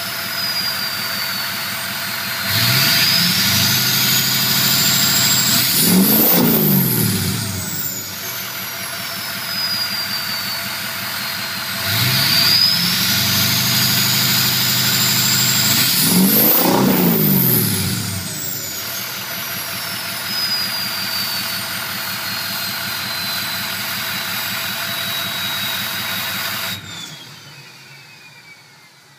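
2005 Ford Excursion's 6.0L Powerstroke turbodiesel idling through an MBRP turbo-back exhaust with the cat deleted, revved up twice. Each rev brings a turbo whistle that climbs steeply in pitch and sweeps back down as the engine drops to idle. Near the end the engine cuts out, leaving the whistle winding down.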